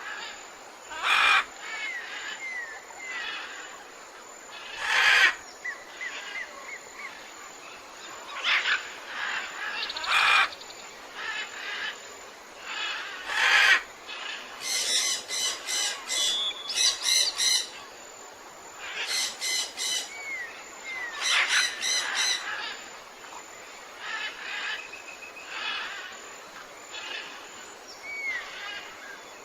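Several tropical forest birds calling: loud harsh calls about every three to four seconds in the first half, then bursts of rapid repeated notes, with short rising chirps in between, over a steady background hiss.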